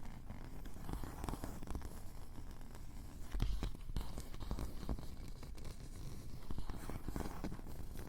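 Fingers rubbing, scratching and tapping directly on a Tascam recorder's built-in microphones: an irregular run of scratchy strokes and small clicks, with heavier low rumbling rubs about half a second and three and a half seconds in.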